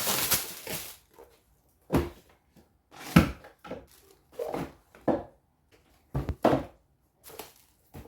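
A run of irregular knocks and thuds, with a short rustling scrape at the start, as objects are handled and set down on a hard, wooden-sounding surface. The loudest thud comes about three seconds in.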